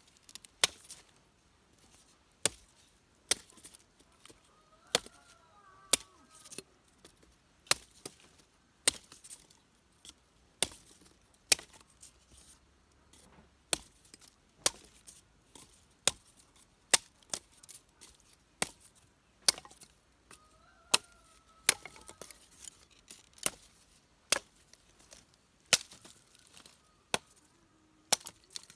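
Repeated chopping with a blade, one sharp strike about every second, steady in rhythm.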